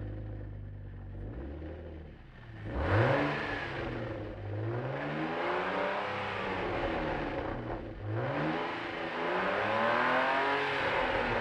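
BMW M52B20 2.0-litre straight-six, with a cable-worked throttle valve fitted in its stock exhaust, idling and then revved twice: a sharp rise in pitch about three seconds in that sinks slowly back, then a second rev about eight seconds in that holds high before starting to fall.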